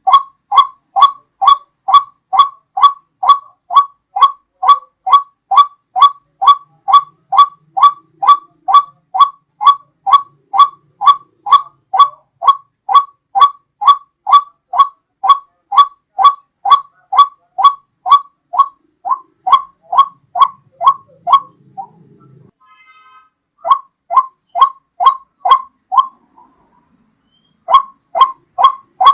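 White-breasted waterhen (ruak-ruak) calling: a long, even series of short rising notes, about two a second, broken by two short pauses near the end.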